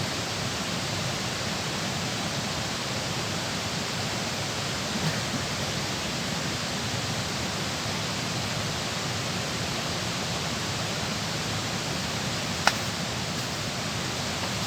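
Steady rush of fast-flowing water at a dam, an even hiss with no pauses. One sharp click cuts through it about three-quarters of the way through.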